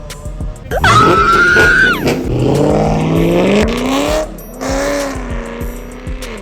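A car launching hard: a brief tire squeal starts suddenly about a second in, then the engine pulls away with its pitch climbing, and a second rev follows near five seconds in before settling.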